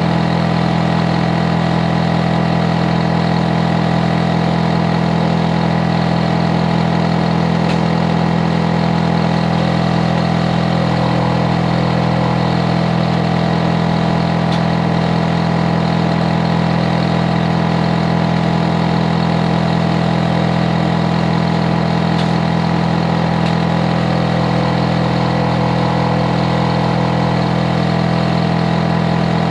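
Hitachi air conditioner outdoor unit running loudly and steadily: a constant hum with several steady low tones and a fainter whir over it, without change.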